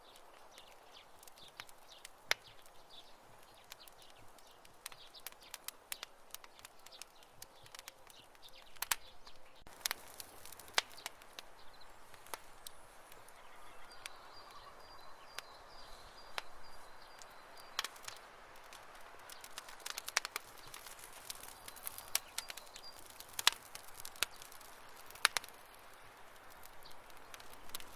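Campfire crackling: irregular sharp pops and snaps of burning wood over a soft hiss. A faint high-pitched trill sounds in the background about halfway through, then briefly again later.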